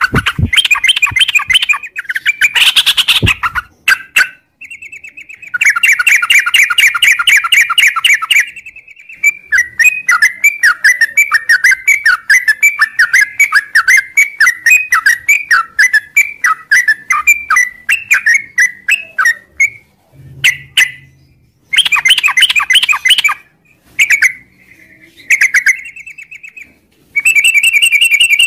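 Yellow-vented bulbul singing in bursts of rapid chattering notes, with a long run of quick up-and-down notes in the middle.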